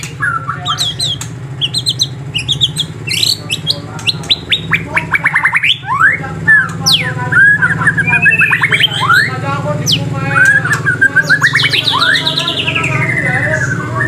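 Songbirds chirping and singing in rapid trills and quick whistled sweeps, with a long falling trill about twelve seconds in, over a steady low hum.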